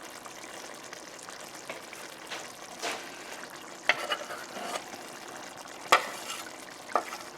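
A spoon stirring a simmering chicken and cream sauce in a pot, over a steady cooking hiss. The spoon clicks sharply against the pot a few times.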